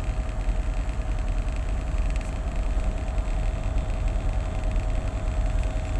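Tugboat's diesel engine running steadily: an even low rumble with a faint constant whine above it.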